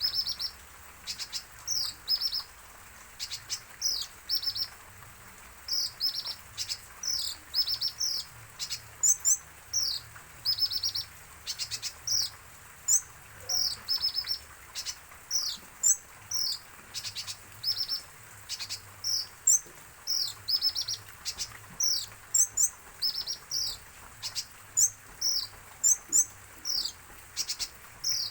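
Brown-throated sunbird (kolibri ninja) chirping continuously: short, high, sharply falling notes in quick clusters of two to four, one cluster after another.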